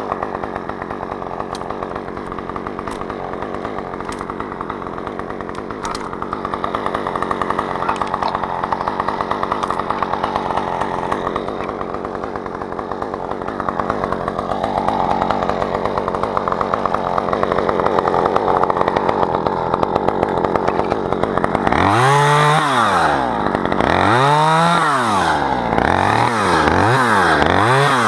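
Chainsaw engine running steadily at speed, then revved up and down several times in quick succession near the end.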